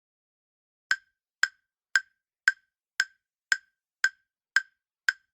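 Quiz countdown timer sound effect: short, identical clock-like ticks, about two a second, starting about a second in, nine in all.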